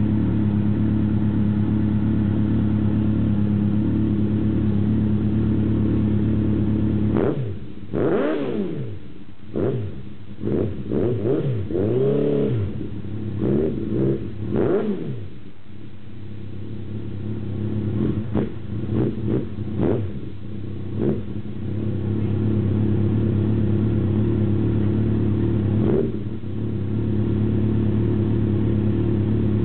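Kawasaki Z1000 inline-four with Devil slip-on exhaust silencers idling steadily, then revved in a run of throttle blips, the pitch shooting up and falling back with each, one held a little longer. It settles back to idle, with one more short blip near the end.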